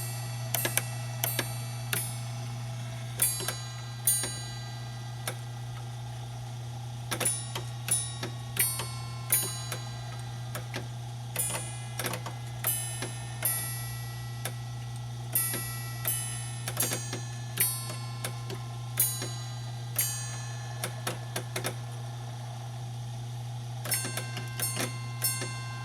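A Deagan Celesta-Chime electronic carillon playing a tune from its player roll, with the amplifiers disconnected. Its hammers strike the metal chime rods, giving light, irregularly spaced metallic strikes that ring briefly, over a steady low hum.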